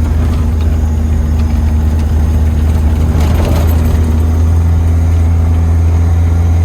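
Datsun 620 pickup's engine and drivetrain running at a steady speed while driving, a loud, even low drone heard from inside the cab with road noise under it.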